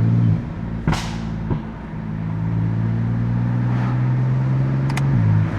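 BMW F80 M3's S55 twin-turbo inline-six running under load. The note cuts out and returns shortly after the start and drops again near the end, like gear changes, with a sharp crack about a second in.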